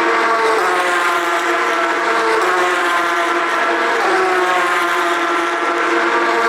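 Porsche 911 GT3 Cup race cars' flat-six engines running hard, several engines overlapping at high revs. Their pitch climbs, dips about four seconds in, then climbs again.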